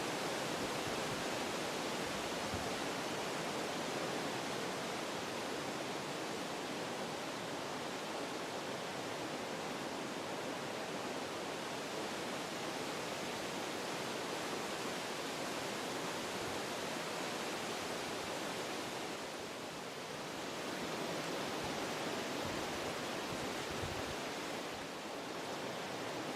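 Wind blowing through forest trees, a steady rushing that eases briefly twice, about two-thirds of the way through and again near the end.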